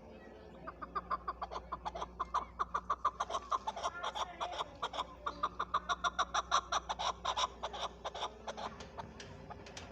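Chukar partridge calling: a fast run of repeated short chuck notes, about five a second, building and then fading near the end.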